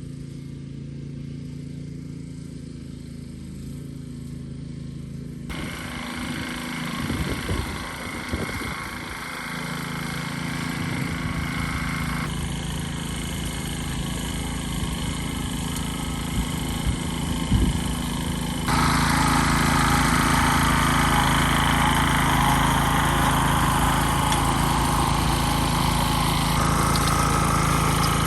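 Farm machinery engine running steadily. Its sound shifts suddenly a few times and grows louder about two-thirds of the way through.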